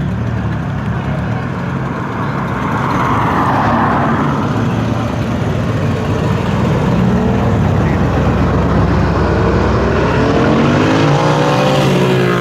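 A car engine rumbling, then revving up with rising pitch over the last few seconds as the car accelerates.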